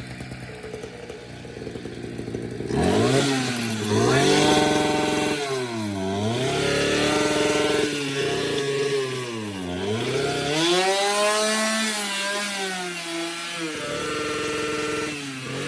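Small two-stroke engine idling, then revved hard about four times, its pitch climbing and dropping each time. The last rev is held high for a few seconds before it falls back to idle. The engine is being over-revved with nitro added.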